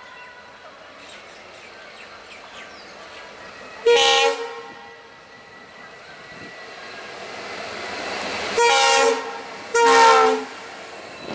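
Train horn sounding three short blasts, one about four seconds in and two close together near the end, over the rising rumble of an approaching train.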